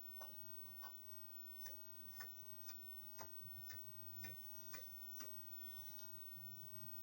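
A series of light, sharp clicks, roughly two a second and unevenly spaced, over faint background noise.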